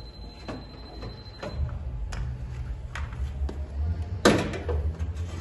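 Sharp metallic taps at irregular intervals, the loudest about three-quarters of the way through, as tools work a dent in a car body panel during paintless dent repair. A low steady hum joins about a second and a half in.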